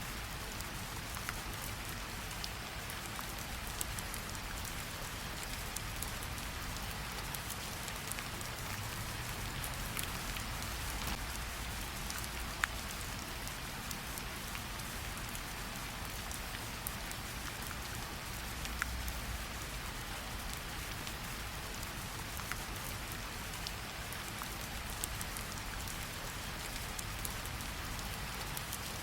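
Steady rain falling on foliage and on pooled water, an even hiss with many scattered sharp drip ticks; two louder drops land about 13 and 19 seconds in.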